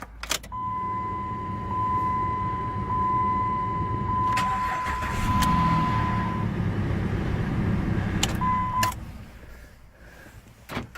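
A 2008 Jeep Liberty's engine starting on the newly programmed key and running, with a steady high electronic chime tone held for about six seconds and a brief second tone near the end. The engine noise dies away after about nine seconds.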